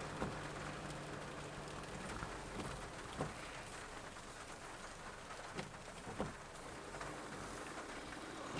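Rain hissing steadily on a vehicle, with its engine humming quietly underneath and a few sharp knocks or clicks now and then.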